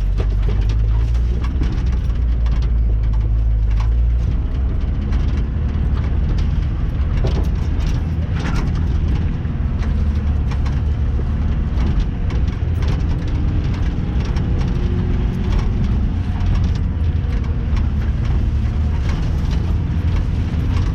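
Off-road vehicle engine running steadily as it drives over rough, roadless ground, with many scattered knocks and cracks over the drone. The low drone is heavier for the first four seconds, then eases.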